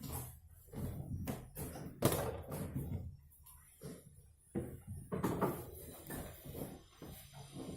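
Irregular knocks and thumps, several in a row with short pauses, from work on a sofa being reupholstered.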